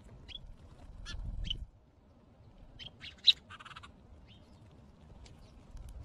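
Birds chirping in short, high notes, scattered through, with a low rumble near the start and a single sharp click about three seconds in.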